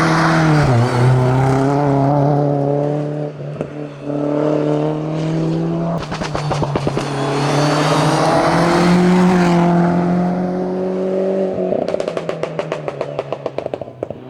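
Hillclimb race car engine under hard throttle, its pitch climbing and dropping with gear changes. Rapid crackling pops break out as the throttle is lifted, about six seconds in and again near the end.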